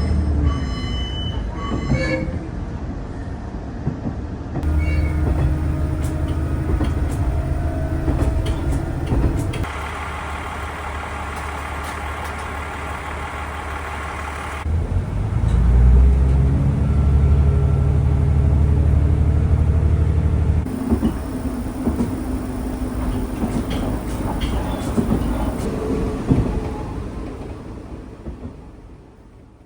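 Local train sounds: a low running rumble that changes abruptly every few seconds as short clips follow one another, fading out near the end.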